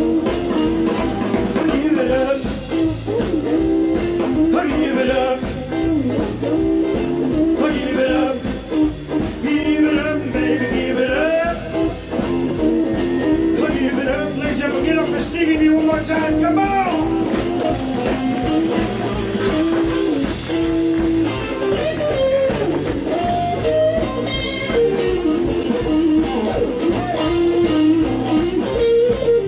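Live blues-rock band playing: a guitar lead with bending notes over a steady drum beat and bass.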